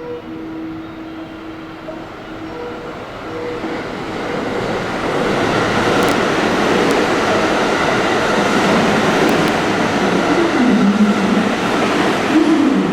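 Eight-car electric commuter train pulling into the platform. Its rolling noise builds over the first few seconds and stays loud, and a wavering whine comes in near the end as it slows.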